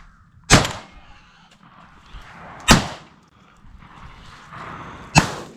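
Three shotgun shots, about two and a half seconds apart: one about half a second in, one near three seconds and one near the end, each a sharp blast with a short ringing tail, fired at crows.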